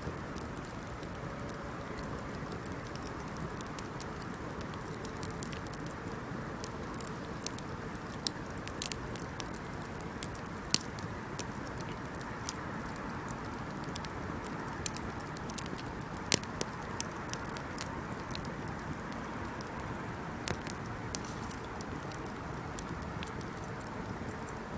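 Wood fire burning: a steady low rushing with scattered sharp crackles and pops, several of them louder than the rest.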